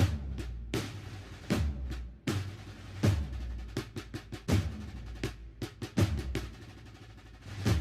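Band drums, snare and bass drum, playing a slow, steady processional beat: a heavy stroke with a low boom about every three-quarters of a second, with lighter snare strokes between.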